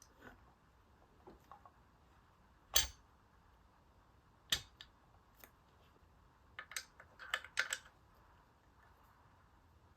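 Scattered sharp clicks and metallic clinks of ceiling fan hardware being handled while the downrod is fitted to its mount. The loudest knock comes about three seconds in, and a quick run of clicks follows near the end.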